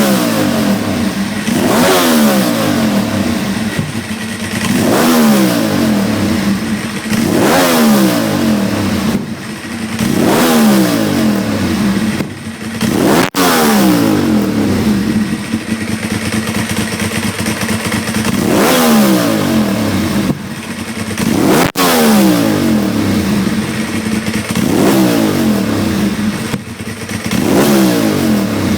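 Ducati 749/999 L-twin with a Termignoni full exhaust being blipped about ten times from idle, each rev rising sharply and falling straight back. Two sharp cracks come at the tops of revs, about halfway through and again later.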